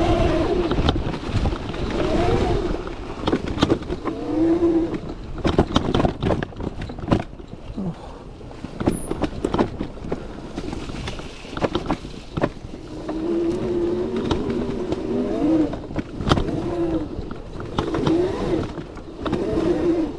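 Electric dirt bike motor on a 72-volt modified Razor MX650, whining and rising and falling in pitch again and again as the throttle is worked, with repeated knocks and rattles from riding over rough ground.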